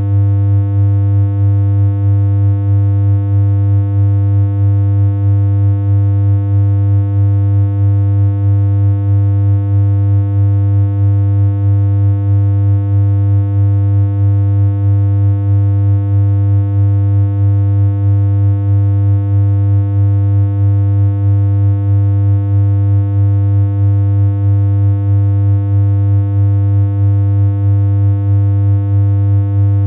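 A steady, loud synthesized hum: one low electronic tone with a stack of overtones, held unchanged throughout, with a faint regular pulse about once a second.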